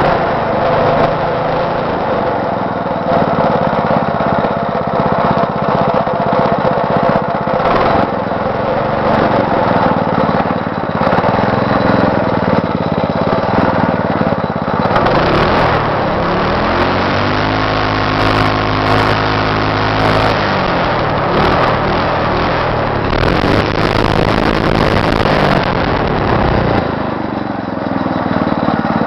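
A 6.5 hp Powerhorse single-cylinder small engine on a go-kart running loudly. Its pitch rises and falls as it is revved and eased off, then it settles to a lower, steadier run near the end.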